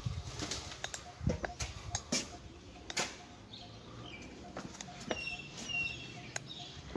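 Birds calling, with a few short high chirps about five seconds in, over scattered footsteps and knocks from walking with a handheld camera.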